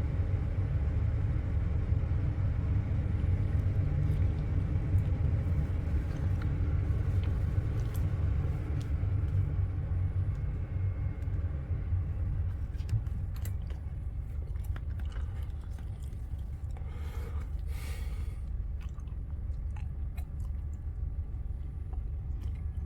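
Steady low rumble of a bus heard from inside the passenger cabin, with scattered light clicks and rattles.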